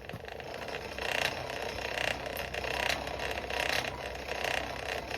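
Hand-cranked forge blower whirring and rattling through its gears, the air and gear noise pulsing about once a second with each turn of the crank as it blows the coal fire up to heat a chain link.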